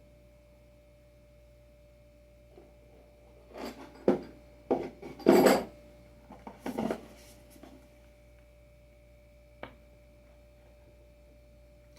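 Skateboard hardware being handled: a run of rubbing and knocking sounds around the middle, the loudest about five seconds in, then a single click near the end, over a faint steady hum.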